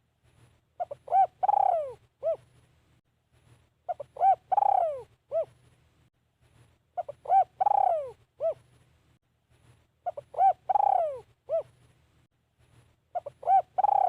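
Spotted dove singing its cooing song over and over, one phrase about every three seconds. Each phrase is a couple of short coos, then a long coo that slides down in pitch, then a short final note. This is the call of a caged call bird used to lure wild doves.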